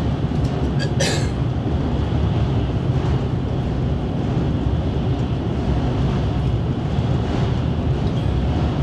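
Steady low rumble of a JR Shikoku 8000-series electric train running at speed, heard from inside the passenger car, with one short sharp click about a second in.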